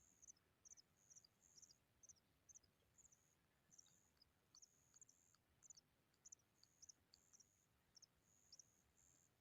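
Faint, high, thin bird chirps: short notes and brief downward-sliding peeps repeated irregularly, several a second.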